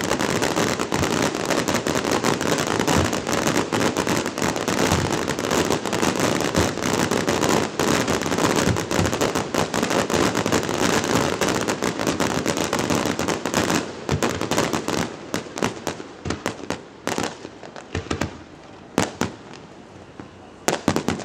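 Aerial fireworks going off in a dense barrage of overlapping bangs and crackle. After about two-thirds of the way through it thins out to scattered single bangs.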